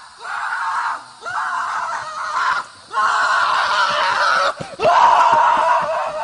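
A series of about four loud, drawn-out screams, each a second or so long, with short breaks between them.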